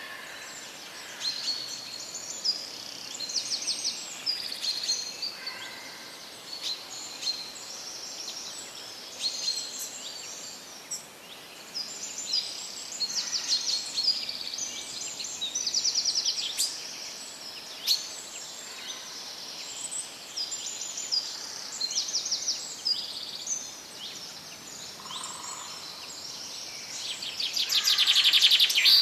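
Birds singing, many short chirps and quick trills overlapping without a break, with a louder trill near the end.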